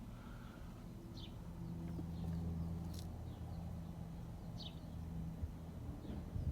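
Low steady engine hum that swells about a second and a half in and fades away near the end, with a few short bird chirps over it.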